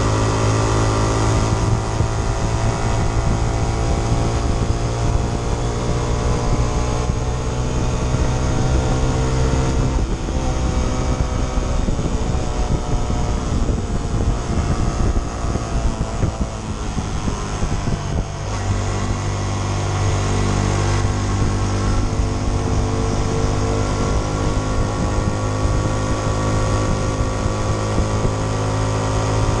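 Honda CT125 Trail 125's single-cylinder four-stroke engine running under way. Its pitch climbs steadily as it pulls, then drops with a gear change about ten seconds in and again around eighteen seconds in.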